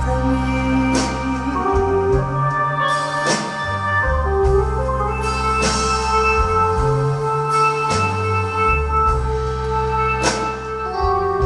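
Instrumental break of a slow song played on an electronic keyboard with an organ sound: held chords over a moving bass line, with a percussion hit every two seconds or so.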